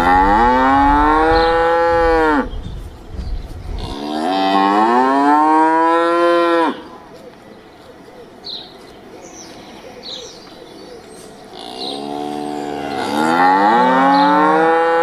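Cow mooing: three long moos, each rising and then falling slightly in pitch. The third starts softer about twelve seconds in and swells louder.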